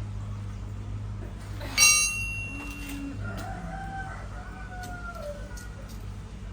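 A sharp metallic clang with a short ringing tail about two seconds in, then a rooster crowing once, a long call that falls away at the end, over a steady low hum.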